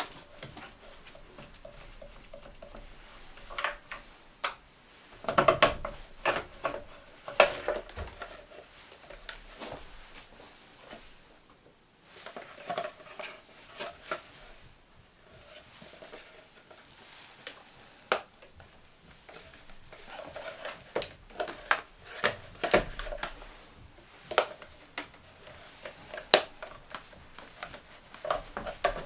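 Irregular metallic clinks, clanks and knocks of hand tools and metal parts being handled while taking apart an ATV. They come in busy clusters with quieter pauses between.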